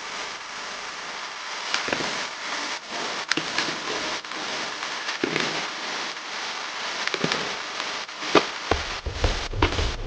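Crackling and rustling with many scattered sharp clicks, and a low rumble coming in near the end.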